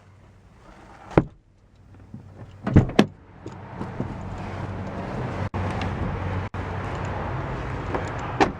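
A car door shutting with a thump about a second in, then a closely spaced double thump near three seconds. A steady outdoor vehicle and traffic noise with a low hum follows.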